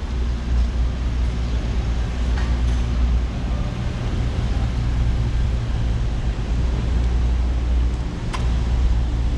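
Street traffic: a low, steady engine rumble from cars and buses, with a short sharp click about eight seconds in.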